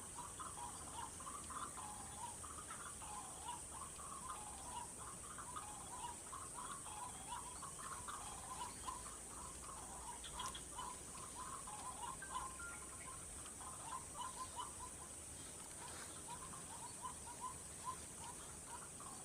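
White-breasted waterhens (ruak-ruak) calling, a long unbroken run of short repeated notes, as used to lure the birds. A steady high insect whine runs underneath.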